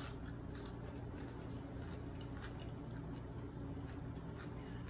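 Faint chewing and mouth sounds of a person eating, a few soft scattered clicks over a steady low background hum.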